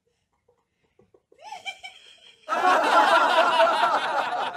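Near silence, then about halfway through loud, sustained human laughter breaks out.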